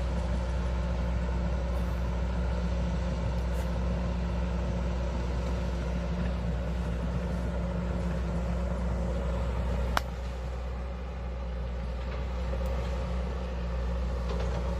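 Hydraulic excavator's diesel engine running steadily, with one sharp knock about ten seconds in, after which the engine sound drops a little.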